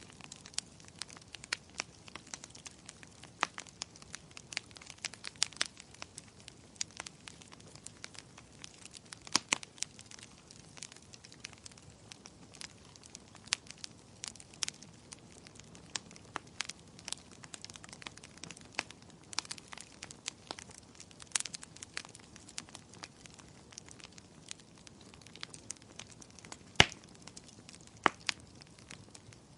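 Wood fire crackling: a steady scatter of sharp, irregular pops and snaps over a faint hiss, with one louder pop near the end.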